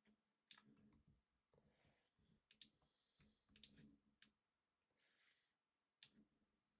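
Faint, scattered computer mouse clicks, about eight in all, some in quick pairs, against near-silent room tone.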